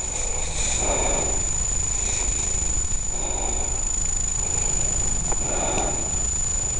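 A person's heavy breathing close to the microphone, a soft puff about once a second, over a steady low rumble, with a thin steady high whine.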